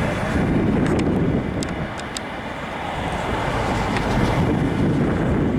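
Freight train moving, a steady low rumble with a few scattered sharp clicks.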